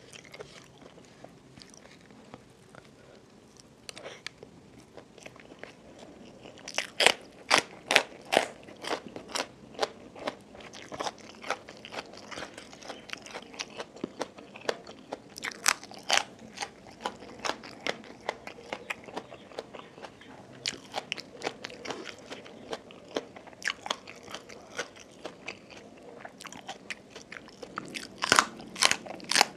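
Close-up eating sounds: crunchy food chewed with crisp, irregular crunches over softer chewing. The crunches come in clusters, the loudest and fastest near the end, when a raw bitter gourd is bitten and chewed.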